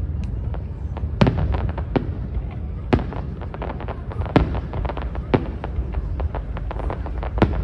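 Fireworks show: sharp bangs of aerial shells bursting every second or so, with quicker strings of smaller crackling pops between them, over a steady low rumble.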